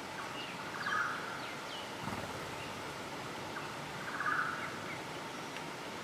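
Wild bird calling in forest: a short buzzy rattle heard twice, about three seconds apart, with thin high falling notes between, over a steady background hiss.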